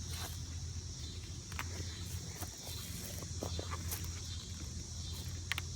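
A honeybee colony buzzing steadily around an open hive, with a steady high insect drone above it and a few light clicks and knocks from hive parts being handled.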